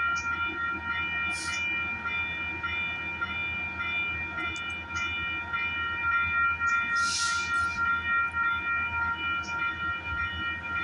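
Metrolink bilevel commuter train standing at the platform, giving off a steady high whine. Short hisses of air come about a second and a half in and again, louder, about seven seconds in.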